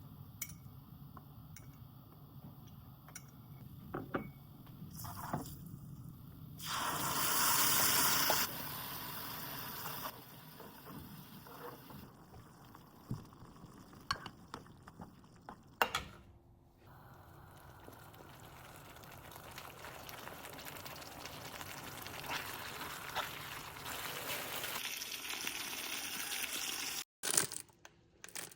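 Food frying and sizzling in a pan. About seven seconds in there is a loud burst of sizzle lasting a second or two, then a steady sizzle that builds toward the end, with scattered clicks and knocks.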